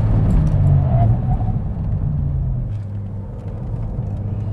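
SEAT Leon Cupra's turbocharged 2.0-litre four-cylinder pulling hard under acceleration out of a corner. The engine note eases slightly about three seconds in, with steady tyre and road noise beneath it.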